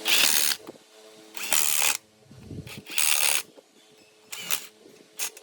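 Five short bursts of hissing, each about half a second long, a second or so apart.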